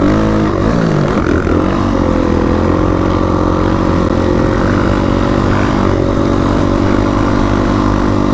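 Dirt bike engine running under way, its pitch shifting in the first couple of seconds and then holding steady, with a low rumble underneath.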